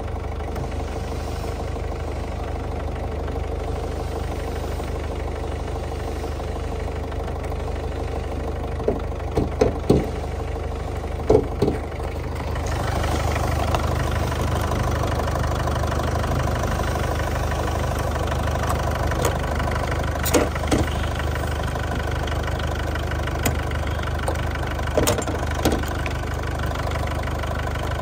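Ford Figo Titanium's engine idling steadily, a little louder from about halfway through. A few sharp clicks and knocks come around ten seconds in and again later, as the bonnet edge and catch are handled.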